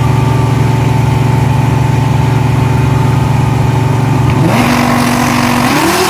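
Supercharged drag-car V8 idling with a steady low rumble and a thin, steady whine above it. About four and a half seconds in the revs jump up and hold, then climb again near the end as the car begins its run.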